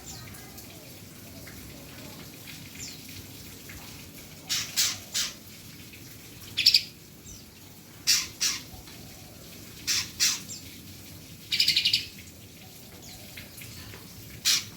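Cucak cungkok songbird giving short, loud, harsh bursts of song and calls, about six spaced a second or two apart after the first few seconds, over fainter background chirps.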